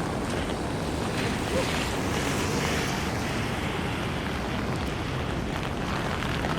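Heavy rain on a city street, mixed with traffic on the wet road: a steady rushing hiss.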